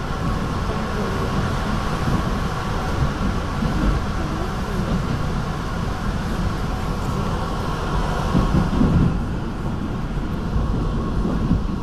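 Steady rumble of a moving NJ Transit Comet IV passenger coach heard from inside, wheels running on rail at speed while crossing a steel truss bridge, with a few brief swells in the noise.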